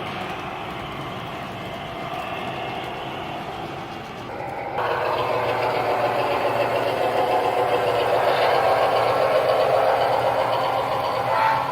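O scale model diesel train running on the layout, a steady engine-like rumble with rolling noise. It gets suddenly louder about five seconds in.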